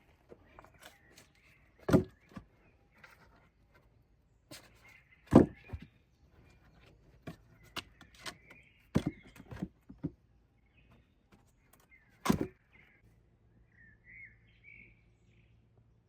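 A series of irregular sharp knocks and thuds, four of them louder than the rest, with smaller clicks and rustles between, while birds chirp faintly.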